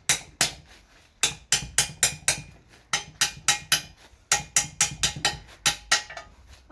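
Hammer blows on steel, sharp and evenly spaced at about three a second, coming in runs of five to seven strikes with short pauses between.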